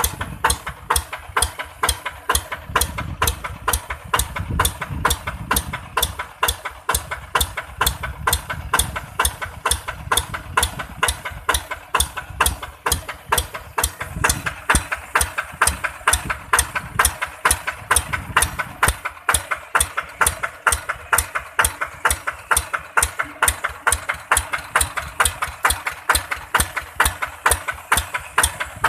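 Yanmar TF150 single-cylinder diesel engine idling with an even, steady beat of firing strokes.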